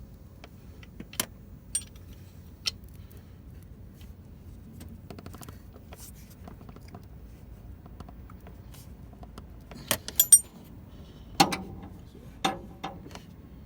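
Metal tools and parts clinking and clanking, with scattered sharp clicks. About ten seconds in there is a quick cluster of ringing clinks, and two heavier clanks follow just after.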